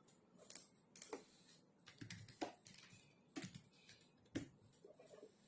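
Quiet, irregular keystrokes on a computer keyboard, a click every half second or so with short pauses, not fast continuous typing.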